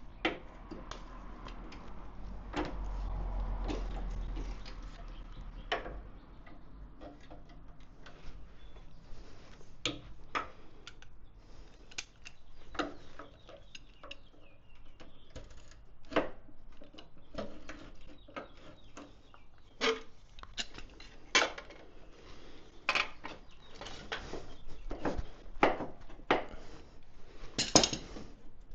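Irregular metallic clinks and knocks of hand tools and metal parts being handled while taking a motorcycle's components apart, with a duller rubbing, shifting sound about three seconds in.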